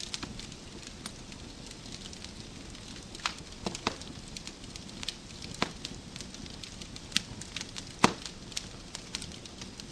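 Wood fire crackling in a fireplace: irregular sharp pops and snaps over a low steady rush of burning, with the loudest pop about eight seconds in.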